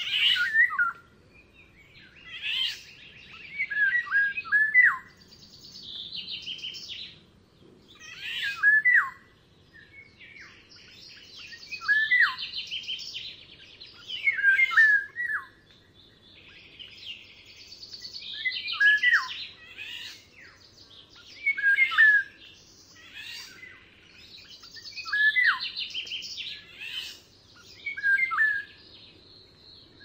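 Wild songbird singing short phrases about every two to three seconds. Each phrase is a rapid trill followed by quick falling whistled notes.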